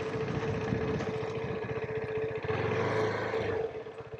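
KTM 390 Adventure's single-cylinder engine running while under way, mixed with wind rush. The engine note swells about two and a half seconds in and eases off about a second later.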